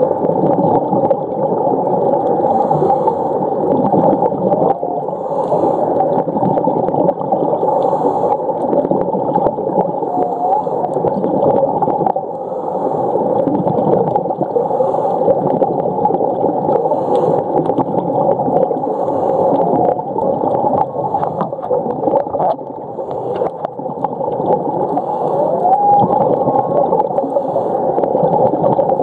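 Humpback whale song heard through the water: short whining and rising calls, one rising call clear near the end, over a steady, dense wash of low noise.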